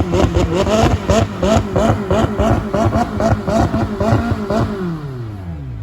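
A car engine held against its rev limiter, the revs bouncing about three times a second with a crackle at each cut. About four and a half seconds in it is let go and the revs fall away toward idle.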